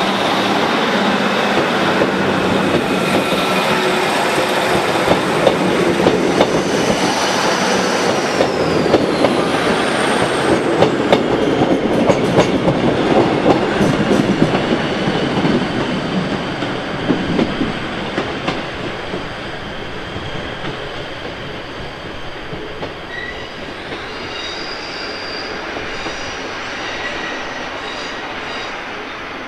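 Class 156 Sprinter diesel multiple unit pulling away past the platform, its wheels clicking over the rail joints and pointwork, with high wheel squeal on the curve. The sound is loud at first and fades steadily from about halfway through as the train draws off.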